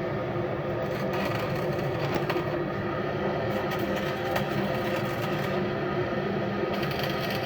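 Steady machinery hum with several fixed tones under an even noise, with a few light clicks and taps.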